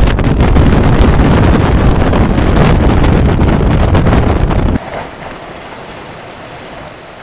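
Strong wind buffeting the microphone in a loud, low rumble that cuts off abruptly a little under five seconds in, leaving a much quieter steady rushing noise.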